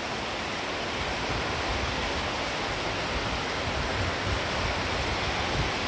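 Very strong rain pouring down steadily, an even hiss with no pauses.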